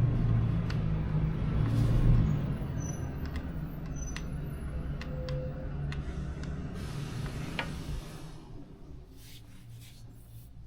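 A motor vehicle's engine hum, loudest in the first two seconds and then dying away gradually over the next several, with a few light clicks along the way.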